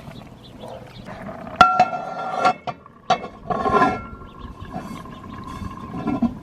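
Sharp metallic clanks on the cast-iron Dutch oven, the first loud one about a second and a half in, each leaving a ringing tone, with rustling and scraping in between.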